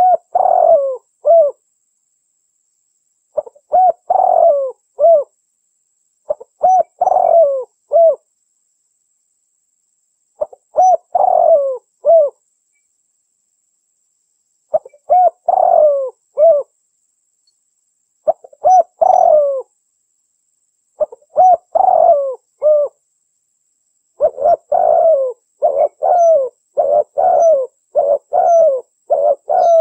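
Female derkuku dove cooing: short phrases of a few coos repeated every three to four seconds, coming in quick succession over the last several seconds.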